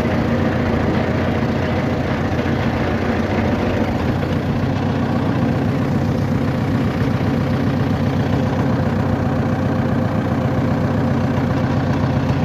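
A vehicle's engine running steadily, a low even hum with no change in speed.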